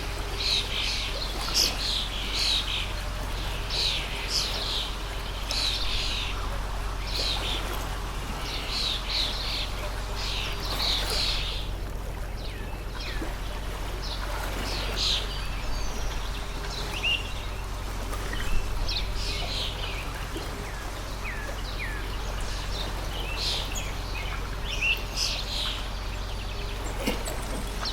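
Small birds chirping in quick, repeated short calls, thick in the first half and sparser later, over the steady rush of a flowing stream.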